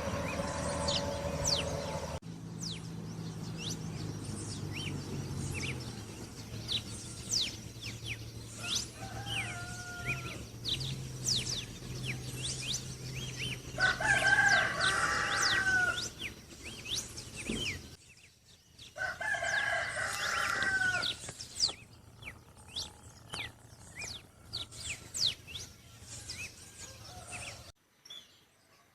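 A rooster crowing: a faint crow, then two louder crows of about two seconds each a few seconds apart. Many small birds chirp throughout.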